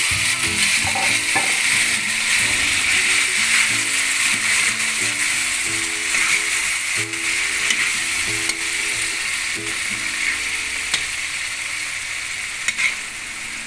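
Sliced tomatoes and flaked tinapa (smoked fish) sizzling steadily as they sauté in a pan, stirred with a metal spatula that clicks and scrapes against the pan now and then.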